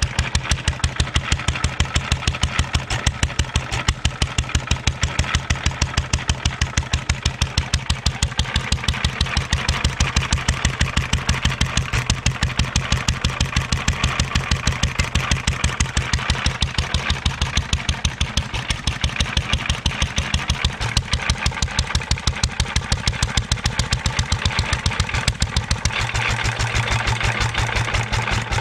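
1.5 hp International LA single-cylinder stationary engine running steadily on its own, firing with an even, regular beat. The sound changes slightly near the end.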